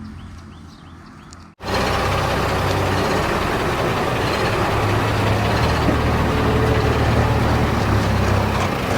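A heavy diesel engine runs, quieter at first, then much louder and steady after a sudden cut about a second and a half in.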